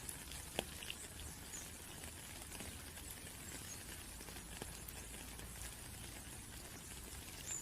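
Steady rainfall, an even hiss of rain with scattered individual drops ticking through it.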